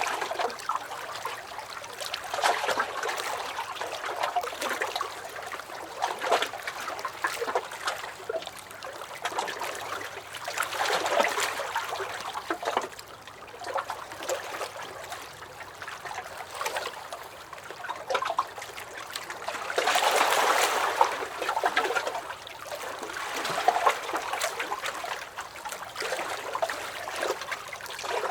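Small waves lapping and sloshing against a lake dock: a continuous trickling, splashing wash that swells every few seconds, most strongly about two-thirds of the way through.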